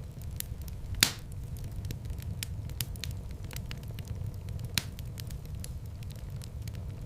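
Wood fire burning in a fireplace, crackling steadily with many small snaps over a low rumble of flames. A sharp, loud pop comes about a second in and another near five seconds.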